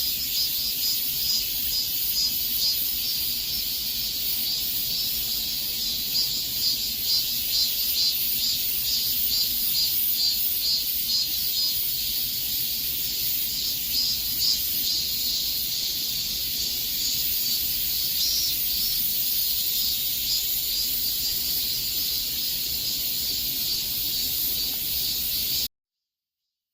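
Cicadas singing in a dense, pulsing chorus. The sound cuts off suddenly near the end.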